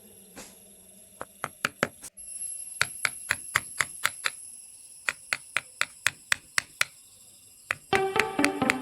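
Carving chisel being struck by a mallet into teak wood: runs of sharp taps at about four a second, with short pauses between runs. Music comes in near the end.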